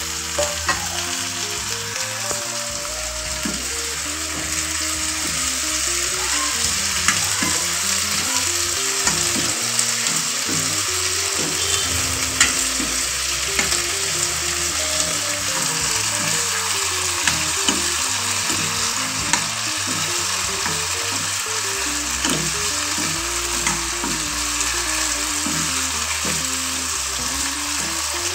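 Sliced potatoes and tomatoes sizzling in hot oil in a kadai while a steel spoon stirs them, clicking against the pan now and then.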